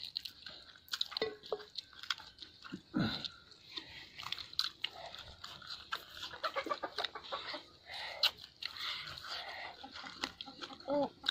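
Close-up eating sounds: chewing, lip smacking and wet mouth clicks as people eat rice and roast chicken by hand from a metal plate. A few short, low calls sound briefly about three seconds in and again near the end.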